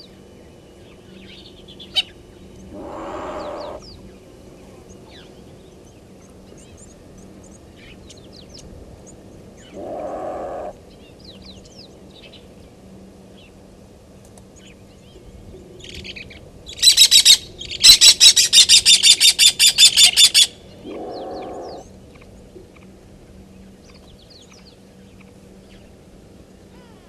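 A loud, high, rapid chattering bird call, about twelve notes a second, lasting three to four seconds about two-thirds of the way in, over scattered faint chirps of small birds. A short lower sound, under a second long, comes three times, several seconds apart.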